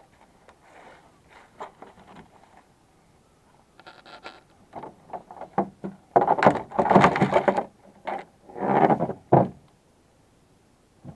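Irregular scraping and knocking, growing louder and longest from about six to nine and a half seconds in.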